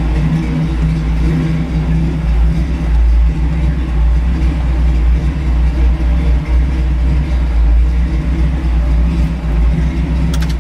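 Carbureted 350 cubic-inch iron-block V8 in a 1952 Ford rat rod truck running steadily, then shut off, cutting out suddenly right at the end.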